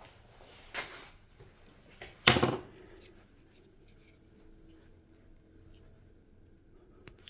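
Small parts and tools handled on a workbench: a short scrape about a second in, then a louder, rasping stroke lasting about a third of a second, around two and a half seconds in.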